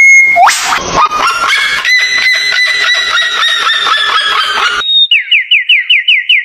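Bird calls: a rapid series of repeated pitched calls, about four a second, for some four seconds, then a fast trill of short falling chirps near the end.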